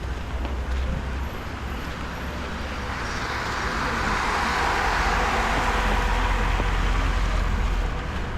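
A car passing on a wet street, its tyre hiss swelling from about three seconds in and easing off near the end, over a steady low rumble.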